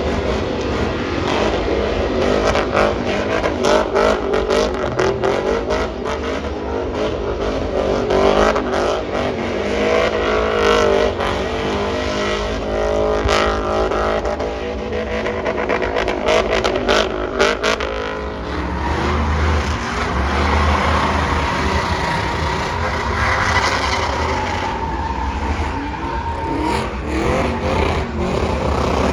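Drag racing vehicle engines running and revving at a drag strip.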